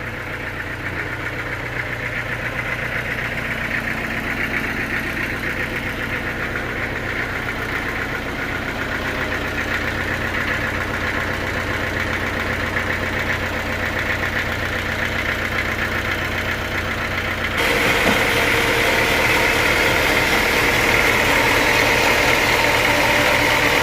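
Sawmill machinery running with a steady engine drone. About eighteen seconds in the sound jumps abruptly louder and brighter, with a harsher high hiss over the drone.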